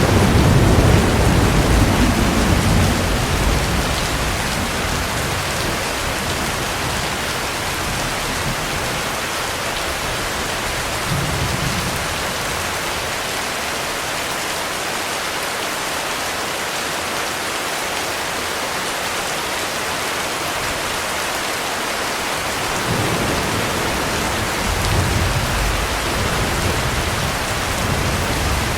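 Heavy rain falling steadily in a thunderstorm. Thunder rumbles loudly at the start and fades over a few seconds. Fainter rumbles follow briefly in the middle and again through the last few seconds.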